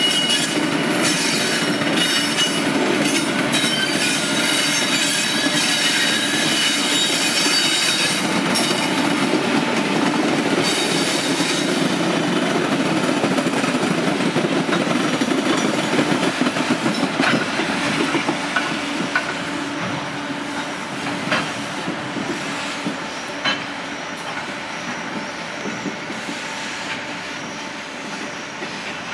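Freight train rolling slowly past on the rails, its wheels squealing with high thin tones over the first several seconds, amid the steady rumble and clatter of the passing wagons. The noise fades gradually through the second half, broken by a few sharp clanks.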